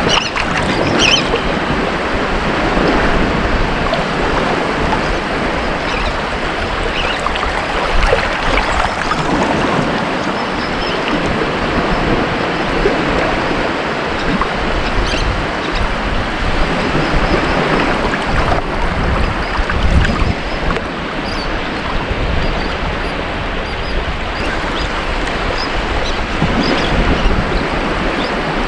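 Ocean waves washing on a beach: a continuous surf hiss that swells and eases gently, with small bright splashes here and there.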